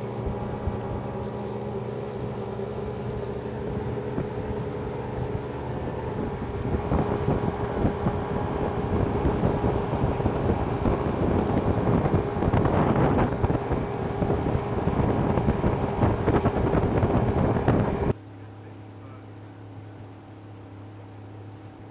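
Boat engine running steadily under way, with wind buffeting the microphone, growing louder toward the middle. About eighteen seconds in it gives way abruptly to a much quieter steady low hum.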